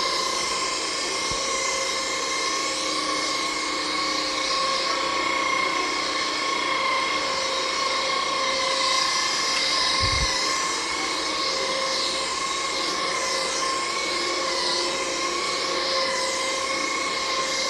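ANAK cordless stick vacuum cleaner running steadily: a high motor whine over a rush of air, its pitch wavering slightly. There is a soft low bump about ten seconds in.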